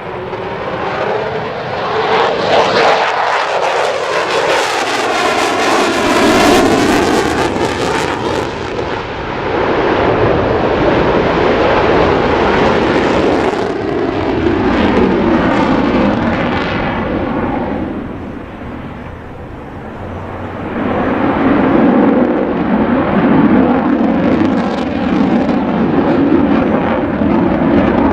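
F-22 Raptor's twin F119 turbofan jet engines flying past low and loud, with a sweeping whoosh in the first several seconds as the jet goes by. The sound sinks briefly about two-thirds through, then swells loud again.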